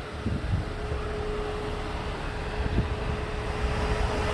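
Steady low rumble of vehicles, with a steady mid-pitched hum that comes in about half a second in.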